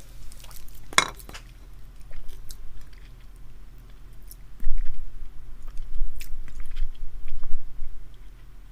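Close-miked chewing and biting of a spicy glazed chicken wing: wet, crunchy mouth sounds with small clicks, louder from about halfway through.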